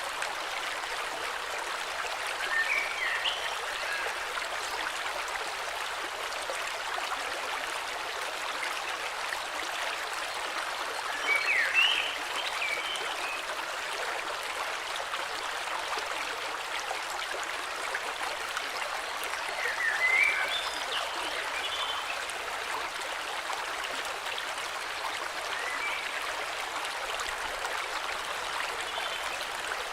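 Flowing river, a steady rush of water, with birds singing short chirping phrases every several seconds, three of them louder.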